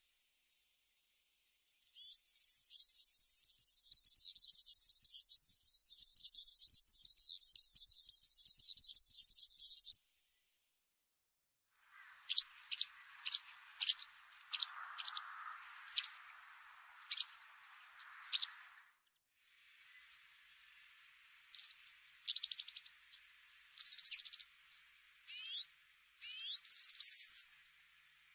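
High-pitched small-bird calls in three spells. First a dense, continuous trill, then after a pause a series of sharp single chirps about two a second, then a run of varied chirps and short notes.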